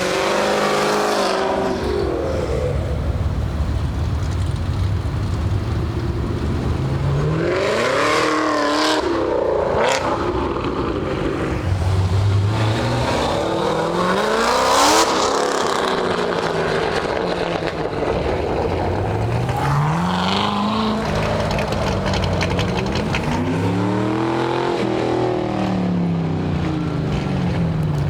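Cars pulling out one after another, their engines revving up and falling back in pitch as each accelerates past. The loudest pass comes about halfway through.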